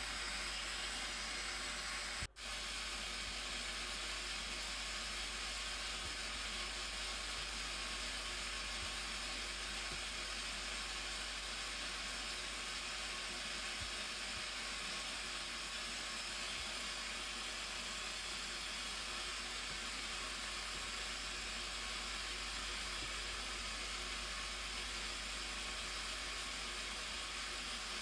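Blue Nile Falls waterfall: the steady, even rush of falling water, cut by a brief dropout about two seconds in.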